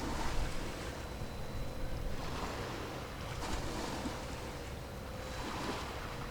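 Small waves washing in every second or two over a low wind rumble, with a faint steady hum under them.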